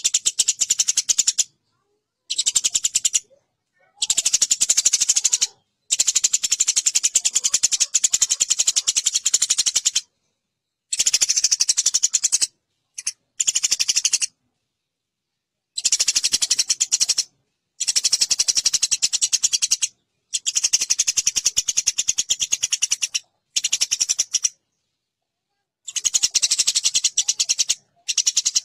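Eurasian tree sparrows chattering harshly and rapidly as they fight, in about ten bursts lasting one to four seconds each, separated by short silences.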